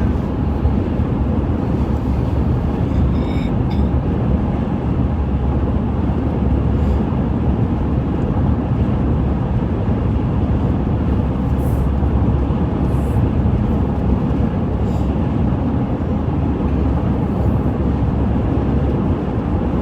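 Steady road and tyre noise of a car driving at freeway speed, heard from inside the cabin.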